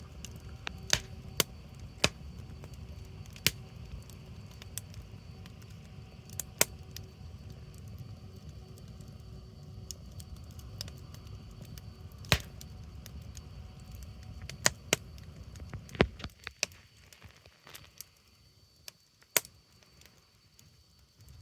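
Wood bonfire crackling, with sharp pops at irregular intervals over a low rumble. The rumble drops away about three-quarters of the way through, leaving only a few scattered pops.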